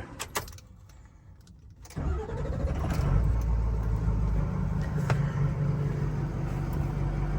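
6.0-liter Power Stroke diesel truck engine cranking and catching about two seconds in, then idling steadily.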